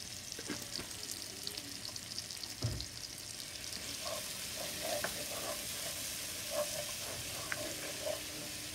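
Onion-tomato masala sizzling in oil in a nonstick pot, with a single knock a little under three seconds in. From about four seconds in, a plastic spoon scrapes and stirs through it in repeated strokes.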